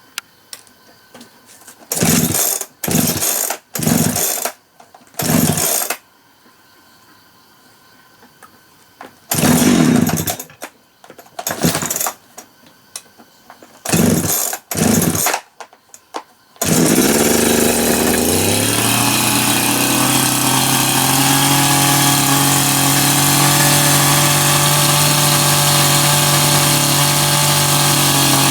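Several short rasping strokes, then a power tool's motor starts about two-thirds of the way in, spins up in pitch and runs at a steady loud hum.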